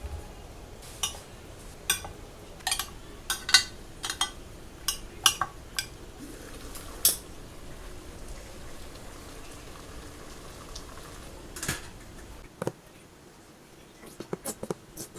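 Dishes and cutlery clinking and knocking in a kitchen: a run of sharp clinks through the first seven seconds, a couple of knocks later and a quick flurry near the end, over a low steady hum that stops about twelve seconds in.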